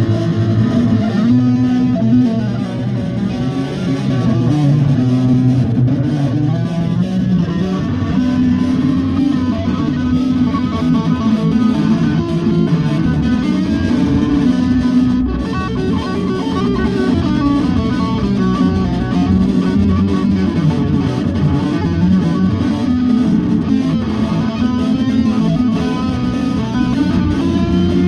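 A band rehearsing: guitar-led music with bass guitar playing on without a break.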